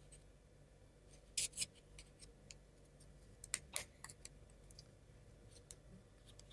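Faint, sparse clicks and taps of laser-cut plywood model parts being handled and pressed together, with two pairs of sharper clicks about a second and a half and three and a half seconds in.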